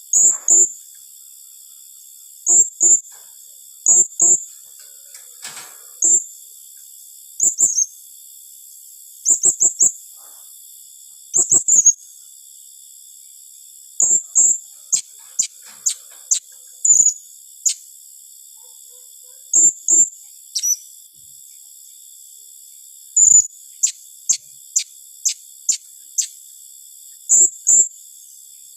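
Blue-crowned hanging parrot (serindit) calling in its rapid-fire 'tembakan rapat' style: sharp, very high notes in quick clusters of two or three, repeated every second or two, with runs of thin, quick falling notes twice along the way. A steady high hiss runs underneath.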